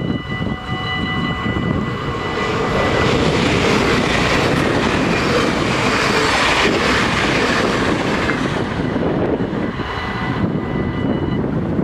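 A Dutch NS double-deck electric passenger train passing over a level crossing: its rush of wheels and running noise swells to a peak mid-way and dies away. The crossing's warning bells ring steadily throughout and cut off shortly before the end.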